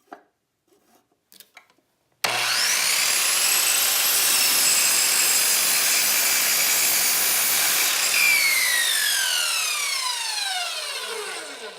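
Electric power saw starting abruptly about two seconds in, running at full speed for about six seconds while cutting into a 2x4, then winding down in a long falling whine after the trigger is let go.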